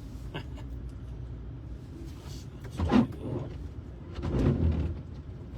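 Windshield wipers sweeping slush off a car's windshield over the low rumble of the car's cabin, with a sharp knock about three seconds in and a longer wipe-like swell near the end.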